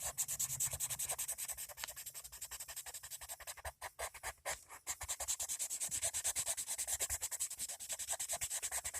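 Colored pencil shading on paper: rapid back-and-forth scratchy strokes, many per second, with a couple of short breaks near the middle.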